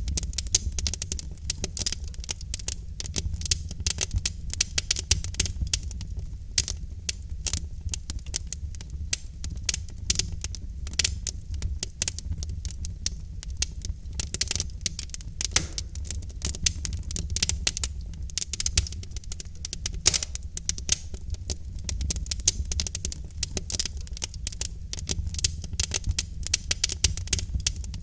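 Burning logs in a fireplace crackling: a dense, irregular run of pops and snaps over a steady low rumble.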